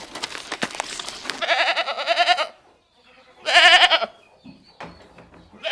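Goat bleating twice, a wavering, quavering call of about a second followed by a shorter one, after a second or so of rustling, crackling noise.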